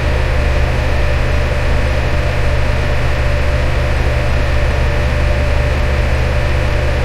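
Electric fan running steadily: an even whooshing noise with a strong low rumble and a faint steady hum, unchanging throughout.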